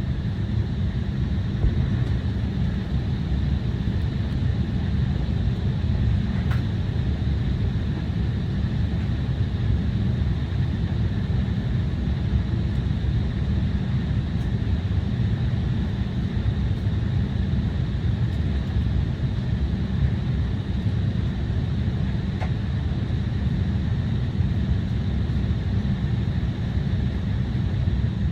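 Steady low rumble inside the cabin of an Embraer 175 airliner parked at the gate before pushback, with a faint steady high whine above it and no change in level.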